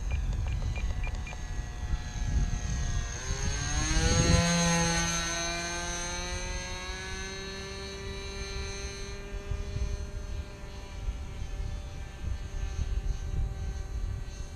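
Super Tigre .25 glow engine of an RC model airplane flying past. It is loudest about four seconds in, where its pitch drops as it passes, then drones on at a steady lower pitch as it moves away.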